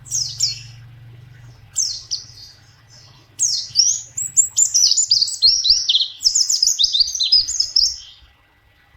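White-eye (pleci) singing: two short chirping phrases, then a long, fast warble of quick falling high notes from about three and a half seconds in until near the end.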